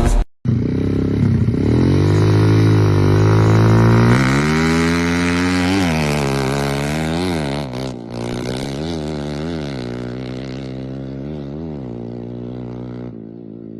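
Motocross bike engine under throttle. It climbs in pitch and holds high for a few seconds, then rises and falls again and again as the throttle is worked, growing fainter toward the end.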